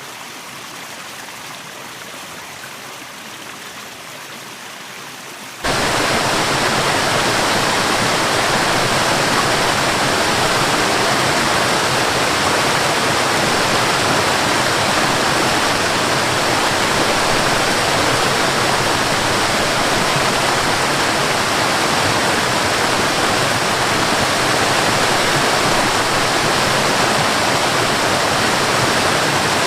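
Waterfall, rushing water as a steady hiss. About six seconds in it jumps abruptly to a much louder, fuller rush that then holds steady.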